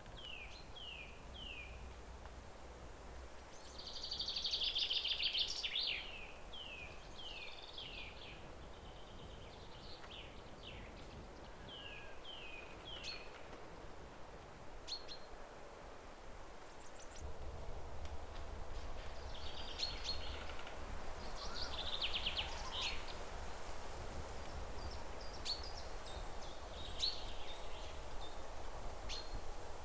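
Songbirds singing: runs of short, down-slurred whistled notes, with louder rapid trills about four seconds in and again past the middle, over a steady outdoor background hiss that thickens partway through.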